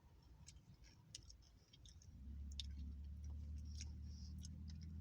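Faint chewing of nachos with scattered small mouth clicks. A low steady hum starts about two seconds in and keeps on.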